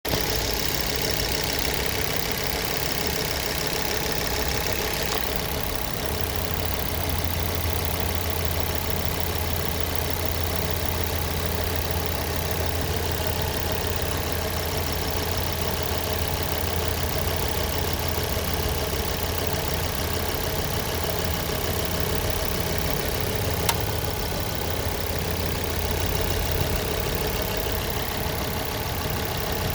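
A 2006 Ford Focus ST2's 2.5-litre turbocharged five-cylinder engine running steadily, with a single sharp knock about 24 seconds in. The owner cannot explain the knocking and hears it with the engine both cold and hot. A high hiss stops about five seconds in, and a low hum grows stronger after it.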